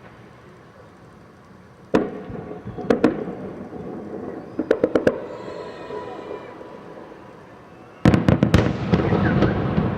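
Aerial fireworks shells bursting: a single bang about two seconds in, a pair near three seconds, a quick run of four around five seconds, then a dense cluster of bangs near the end trailing into a rolling rumble.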